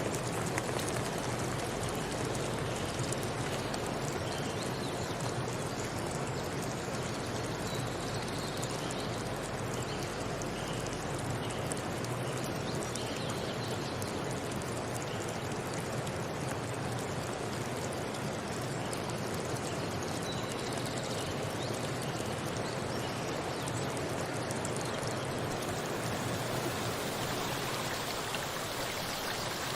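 Steady, even rush of flowing water, as of a stream or waterfall.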